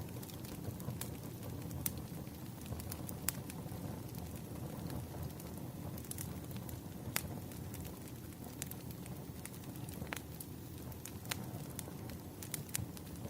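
Wood fire burning: a steady low rush of flames with irregular sharp crackles and pops from the burning logs.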